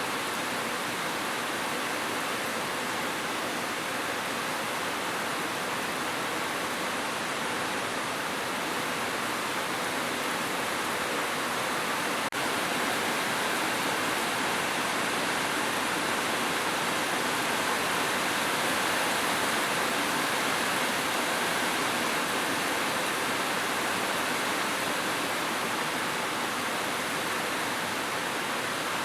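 Heavy rain falling steadily on a roof: a dense, even hiss with no thunder. A faint click about 12 s in, after which it is slightly louder.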